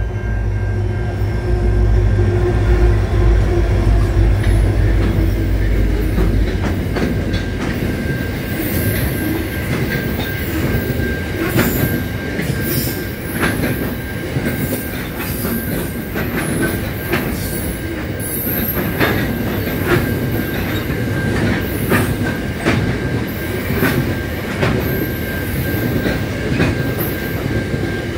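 Grain freight train passing close by. A deep diesel rumble fills the first six seconds or so, then the grain hopper wagons roll by with a steady high-pitched wheel squeal and irregular clicks of wheels over rail joints.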